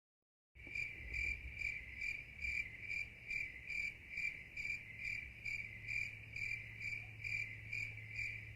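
A cricket chirping in a steady, even rhythm, about two high chirps a second, starting about half a second in. A faint low steady hum runs underneath.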